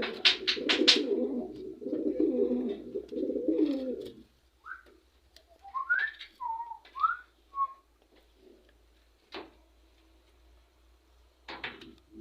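Pet birds calling: about four seconds of low, rolling dove-like cooing, then several short whistled calls that rise and fall in pitch. There are two sharp clicks in the second half.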